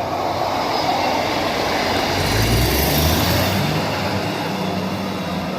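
Class 158 diesel multiple units passing through the station without stopping: wheel-on-rail noise and the underfloor diesel engines' low drone grow louder, are loudest around the middle as the cars go by, then ease off a little.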